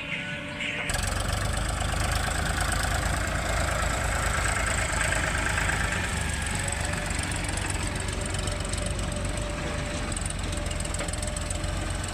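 Diesel engine of heavy earth-moving machinery running steadily, cutting in abruptly about a second in.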